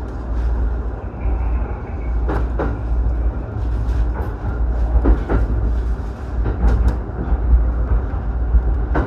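Electric commuter train running, heard from inside the passenger car: a steady low rumble with pairs of quick knocks from the wheels crossing rail joints, three times a couple of seconds apart.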